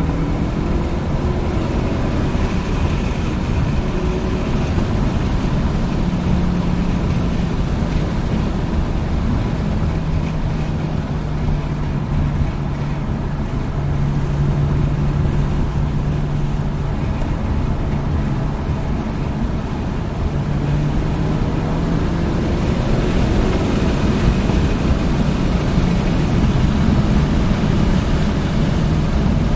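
Hyundai Elantra N's turbocharged four-cylinder engine running at fairly steady revs, heard from inside the cabin over loud road and wind noise.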